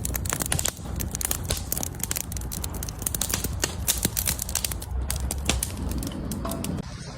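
Campfire crackling: a dense, irregular run of sharp pops and snaps from burning wood, over a low rumble. The crackling dies away near the end.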